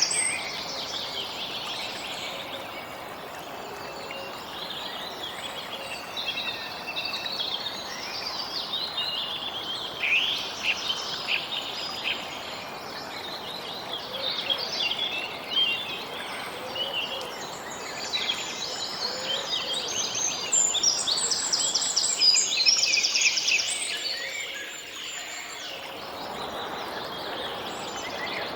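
Outdoor birdsong: many birds chirping, with rapid runs of high chirps, over a soft steady background hiss. The chirping is busiest about a third of the way in and again near the end.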